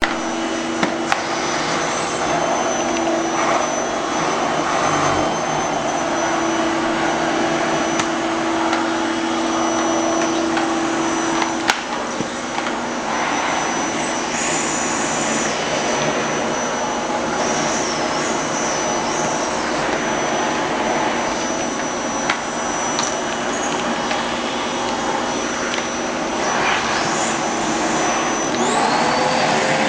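Vacuum cleaner running steadily with its nozzle drawn over a cat's fur; the suction noise wavers with a shifting whistle, and a whine rises near the end.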